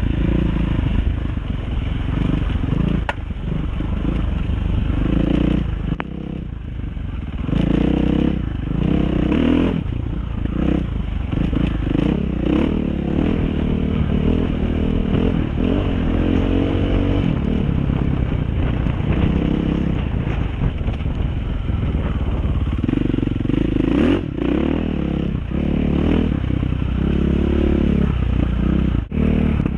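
Dirt bike engine running while riding a trail, its pitch rising and falling again and again as the throttle opens and closes.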